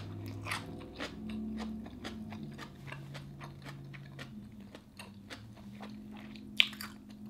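Close-up chewing of a mouthful of crisp cucumber: a run of wet crunches and mouth clicks, with one sharper crunch near the end.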